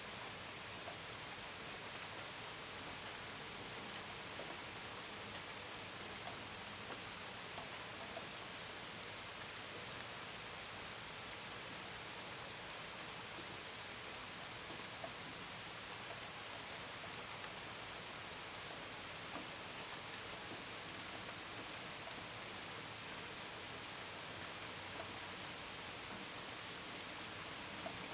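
Steady gentle rain with scattered drops tapping on a window and gutters, under a continuous high-pitched chorus of chirping crickets. A single sharp tick about 22 seconds in.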